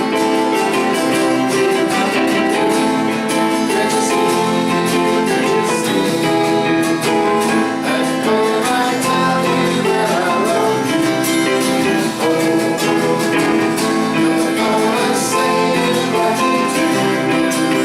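Guitar-led band music playing continuously, with a singing voice.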